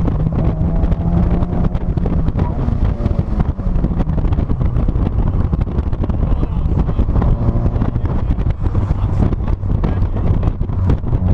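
Heavy wind buffeting on a trunk-mounted action camera's microphone on a moving 2006 Mazda NC Miata, with the car's engine running and road rumble underneath, its pitch shifting as the car drives.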